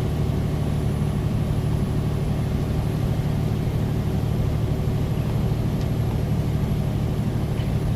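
Semi-truck's diesel engine running steadily under load, heard from inside the cab, with road and tyre noise on snow.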